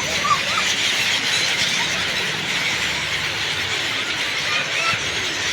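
A large flock of birds calling at once: many overlapping chirps and squeaks in a steady din.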